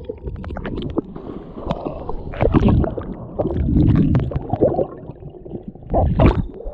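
Stream water sloshing and splashing around wading feet on slippery rocks, with irregular knocks and scuffs; the loudest surge comes about six seconds in.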